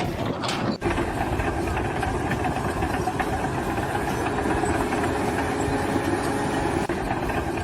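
An engine running steadily at idle, with a short break just under a second in.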